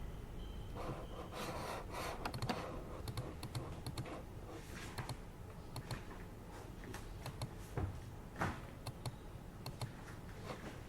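Typing on a computer keyboard: irregular runs of keystroke clicks, over the steady low hum of an air purifier.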